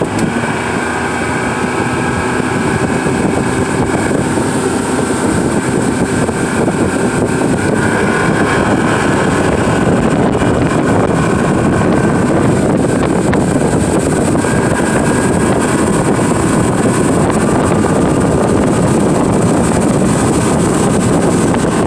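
Tour boat's motor running at speed after throttling up, building over the first couple of seconds and then holding steady, with wind buffeting the microphone.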